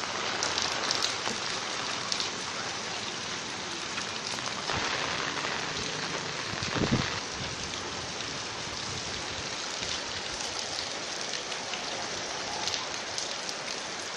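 Steady rain falling with a continuous hiss and patter, and one brief louder thud about halfway through.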